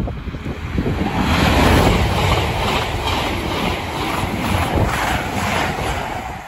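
A high-speed train passing at speed: a loud rush of wheel and air noise that swells about a second in, with a regular beat of wheels over the rails, easing off near the end.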